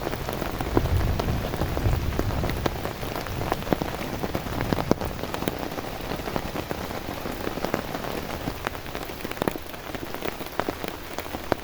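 Heavy rain falling steadily, with many single drops landing as sharp ticks. A low rumble sits under it for the first couple of seconds.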